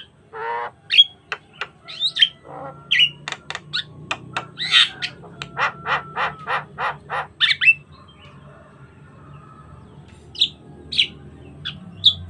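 Javan myna singing a varied, chattering song: sharp clicks, a harsh rattled note and whistled notes, with a quick run of short notes at about four a second in the middle. It pauses for a couple of seconds, then gives a few short whistles near the end.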